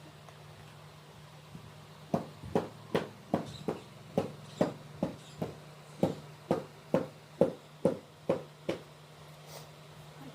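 Hammer blows in a steady rhythm: about seventeen dull knocks at roughly two and a half a second, starting about two seconds in and stopping near the end, over a steady low hum.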